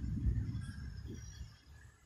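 Thunder rumbling, peaking a moment in and then dying away.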